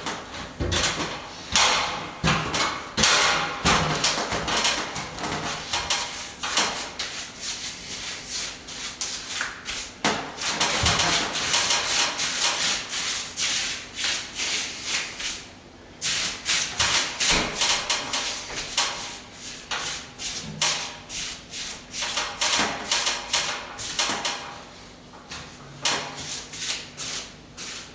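A plastering tool scraping and rubbing filler over plaster in quick, irregular strokes, with a longer run of continuous scraping near the middle.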